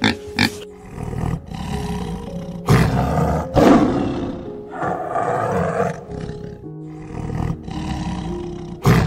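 A tiger roaring and growling again and again from about three seconds in, over soft piano music.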